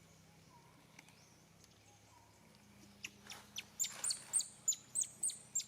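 A quick run of about eight short, high-pitched chirping calls, starting about three seconds in, over a quiet steady background.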